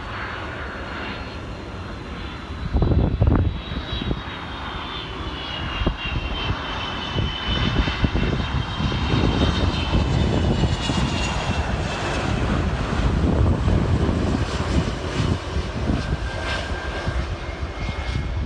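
Jet airliner's engines running as it passes, a low rumble under a high fan whine that slowly falls in pitch. A loud low surge of rumble comes about three seconds in.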